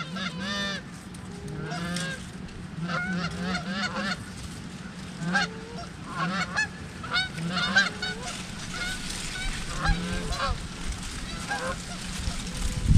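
A flock of Canada geese honking, many short calls at different pitches overlapping one another without a break.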